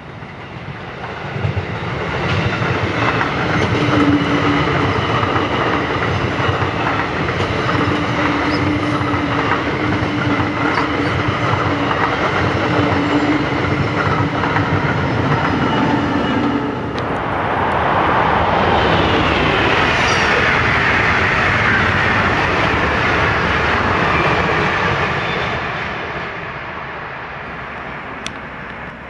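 Passenger train passing at speed: the sound rises within about two seconds, carries a steady hum through the first half, changes to a broad rushing noise about halfway through, and fades near the end.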